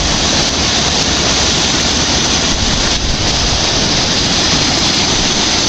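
Steady rushing of fast-flowing water, an even hiss-like roar that does not change.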